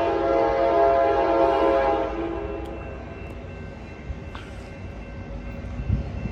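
Amtrak Capitol Corridor locomotive's multi-tone air horn sounding a long chord that fades out about two seconds in. The train then rolls in with a low rumble, and a short high squeal comes about four seconds in.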